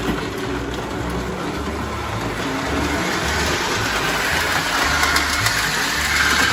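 O gauge model train running along the layout track, a steady rolling rumble that grows louder toward the end as it comes closer.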